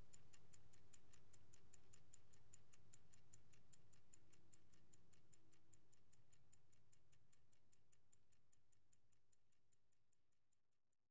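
Vintage Swiss-made Angelus mechanical clock ticking evenly, about five ticks a second, fading out gradually toward the end.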